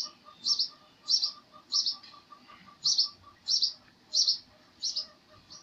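A small bird chirping over and over: short, high double chirps about every two-thirds of a second, with a brief pause near the middle.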